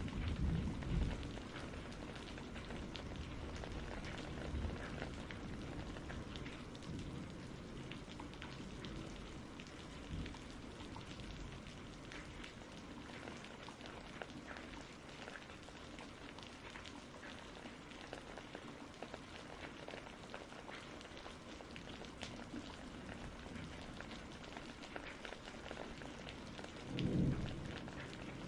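Steady rain pattering, with a low rumble of thunder dying away at the start and a brief low rumble of thunder near the end.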